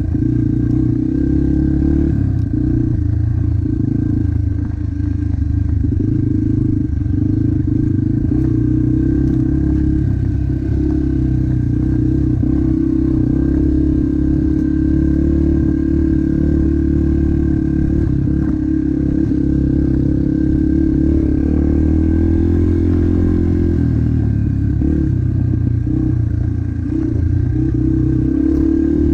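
Dirt bike engine running at fairly steady revs, loud and close, easing off briefly a few times.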